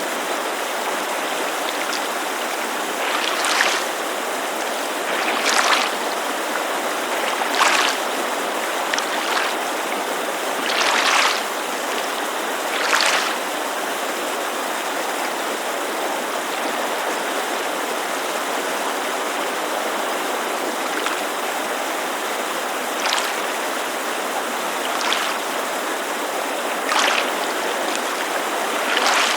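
Small waves lapping against a lakeshore, each a short soft splash, coming about every two seconds with a lull in the middle, over the steady rush of a mountain creek.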